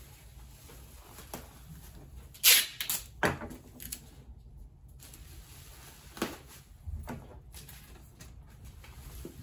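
Parcel-packing noises: a few short, sharp rustles and knocks from handling wrapping materials around a framed picture, the loudest about two and a half seconds in.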